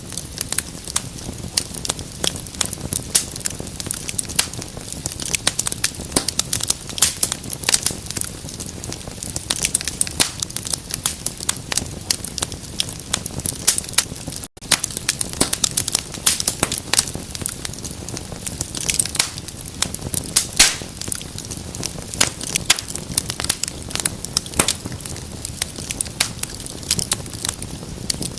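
Wood fire in a fireplace crackling: dense, irregular pops and snaps over a soft steady hiss. The sound cuts out for an instant about halfway through.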